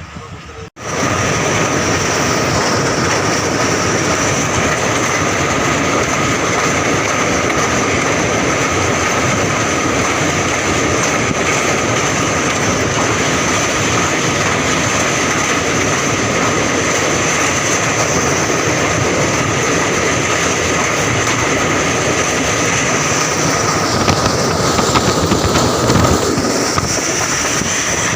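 Passenger train running at speed: a steady loud rumble of wheels on track with a constant high ringing, starting abruptly just under a second in. The sound shifts and grows briefly louder about 24 to 26 seconds in.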